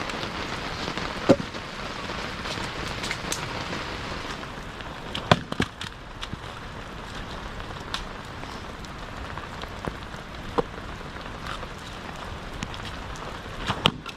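Steady rain falling, with a few sharp knocks scattered through it.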